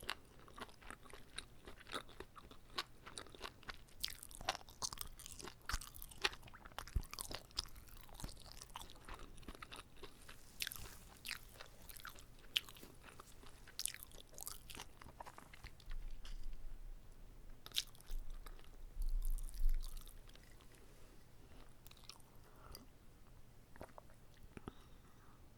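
Close-miked chewing and biting of a whole uncut gimbap (Korean seaweed rice roll), a steady run of irregular wet clicks and soft crunches. A couple of low muffled rumbles come past the middle.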